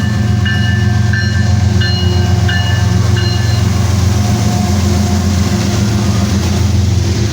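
Kansas City Southern diesel locomotive passing close with a loud, steady low engine drone. A bell rings about every two-thirds of a second over it and stops about three seconds in.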